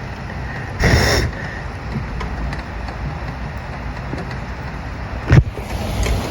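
Steady rain, with a brief loud swish about a second in and a sharp knock about five seconds in.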